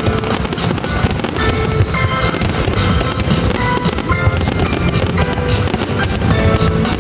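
Fireworks bursting in quick succession, many sharp bangs close together, over music playing along.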